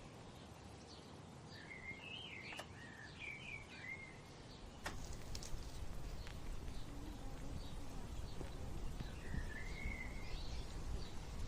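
Birdsong: a songbird sings a warbling phrase about two seconds in and again near the end, over faint repeated high chirps and a low background rumble, with a couple of sharp clicks.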